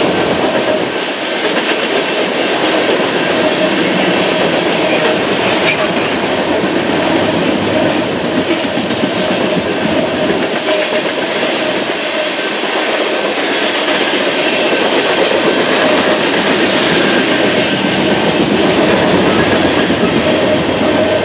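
Coal hopper cars of a unit freight train rolling past, with a steady clatter of steel wheels on the rails.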